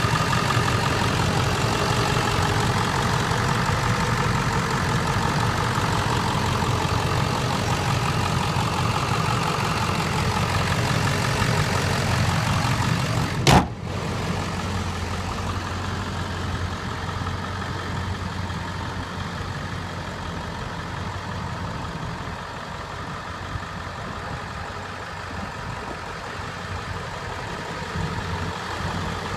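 A 7.3 Powerstroke V8 turbo diesel in a 2003 Ford F-350 idling steadily. A single sharp knock comes about halfway through, and after it the engine sounds a little quieter.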